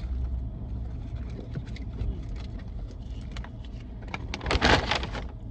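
Steady low rumble of a car heard from inside the cabin, with scattered small clicks of food and packaging being handled, and a louder short noisy burst about four and a half seconds in.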